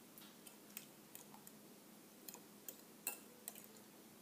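Faint, irregular light clicks of a utensil tapping against a bowl as the omelette's egg mixture is stirred.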